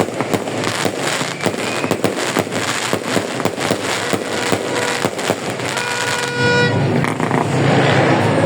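New Year fireworks going off in quick succession: a dense run of bangs and crackles. About six seconds in, a horn toots for about a second.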